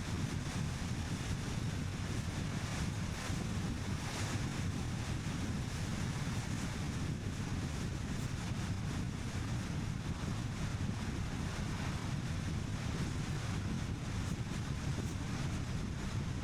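Steady driving noise from a car on the move: a low tyre and road rumble with wind buffeting the microphone.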